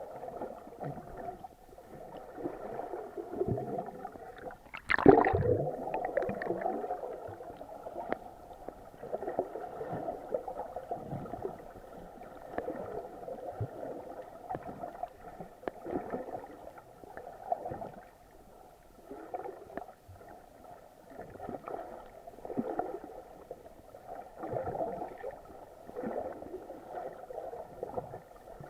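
Muffled, irregular water sloshing and gurgling picked up by an action camera in its waterproof housing during snorkeling, with one louder splash about five seconds in.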